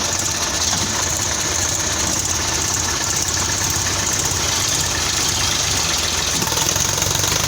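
Sonalika tractor's diesel engine running steadily with a low rumble.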